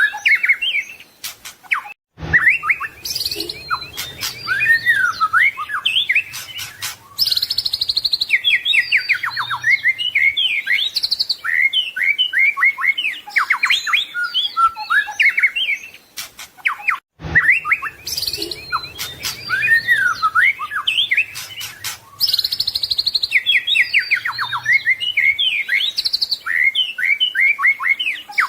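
White-rumped shama (murai batu) singing a fast, varied song of rapid chirps, whistles and trills. The same passage starts over after a brief gap about two-thirds of the way through, as a looped recording.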